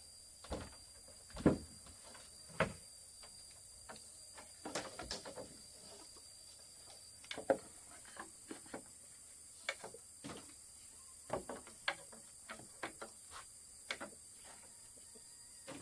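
Irregular knocks, taps and clicks of something being handled, with the two loudest knocks in the first three seconds. A steady high hiss and a thin high tone run underneath.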